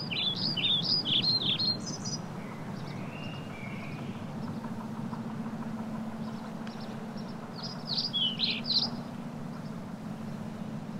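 A small bird chirping in quick runs of high, downward-sweeping notes: one run in the first two seconds and another about eight seconds in. Under it is a steady low hum.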